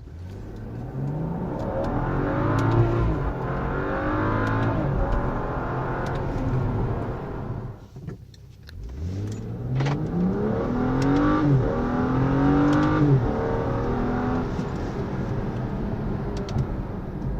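Car engine and exhaust heard from inside the cabin under hard acceleration, one run with a CG Precision aftermarket exhaust and one with the stock exhaust. The pitch climbs and drops back at each upshift. It quietens briefly partway through, then a second run climbs the same way and settles to a steady drone near the end.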